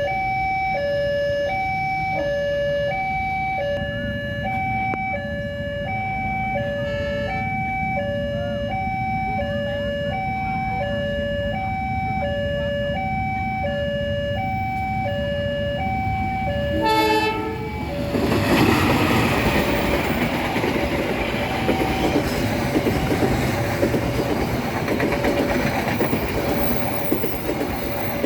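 Level crossing alarm sounding a two-tone high-low chime about once a second. About seventeen seconds in, a train horn gives a short blast, and the passenger train then passes loudly, its wheels rumbling and clacking over the rails while the alarm keeps chiming.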